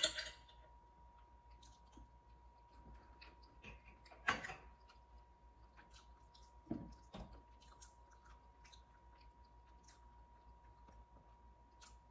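Faint close-up chewing and mouth sounds of someone eating fried shrimp, with scattered small clicks. Short louder knocks come at the very start, about four seconds in, and again around seven seconds in.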